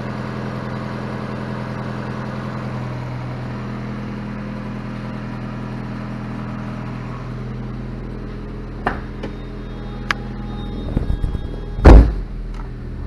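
Mazda Miata's 1.8-litre four-cylinder engine idling steadily, just after a cold start, running smoothly. Near the end come a few sharp clicks and then one loud thump.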